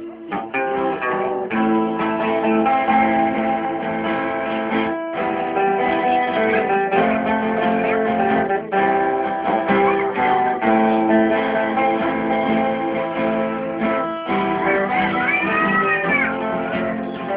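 Acoustic guitar playing an instrumental passage of a romantic Brazilian song, strummed and picked with held chords, with a wavering high note near the end.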